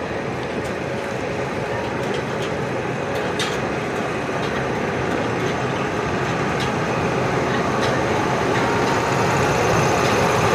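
Indian Railways sleeper-class passenger coach rolling slowly out of a station, heard from the open doorway: a steady rumble of wheels on the rails with a few sharp clicks, growing louder as the train picks up speed.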